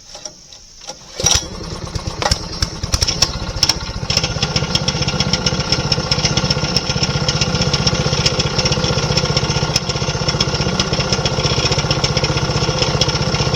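Sawmill's small engine starting about a second in, running unevenly for a few seconds, then settling into steady running.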